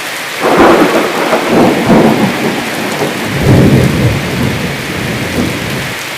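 Heavy rain falling steadily, with a peal of thunder that breaks about half a second in, rolls on in several swells and fades out near the end.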